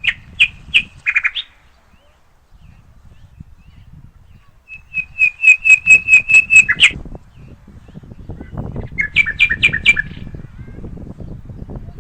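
A bird singing three phrases of quick repeated sharp notes, the loudest phrase in the middle, over a low rumble.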